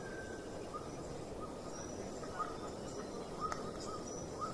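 Faint outdoor background with short, thin bird calls repeating over a steady hiss, and a single sharp click about three and a half seconds in.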